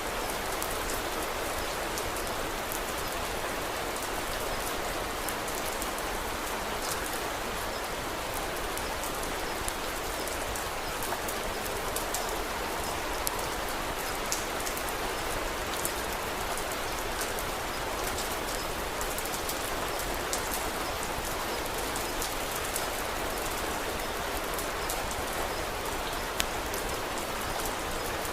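Steady rain falling, with scattered sharp clicks and pops through it.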